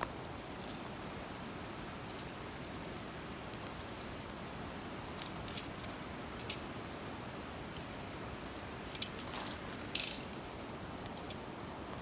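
Wood fire crackling with scattered sharp pops over a steady hiss; the loudest crack comes about ten seconds in.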